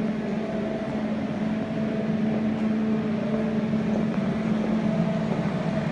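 Dehumidifiers drying out a flooded building, running with a steady, even hum that holds a low tone and a fainter higher one.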